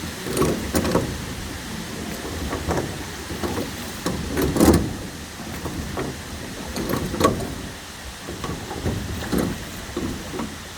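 Steady rush of water from the waterfall, with irregular knocks and bumps from the rowboat, the loudest a little before five seconds in.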